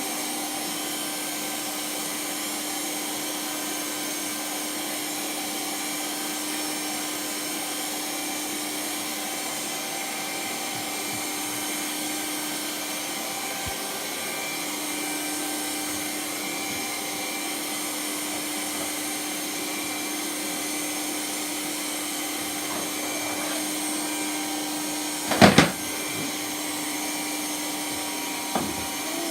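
Vacuum cleaner running steadily with an even motor hum. It bumps into something once, sharply, about 25 seconds in, and lightly again near the end.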